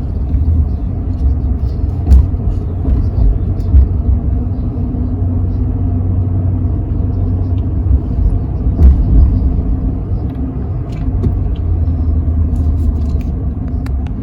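Steady low rumble of a truck driving on the road, engine and tyre noise heard from inside the cab.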